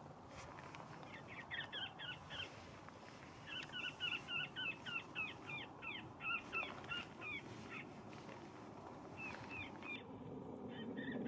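Series of short bird-like calls repeated several a second, in three bouts, the longest in the middle, over a faint steady background.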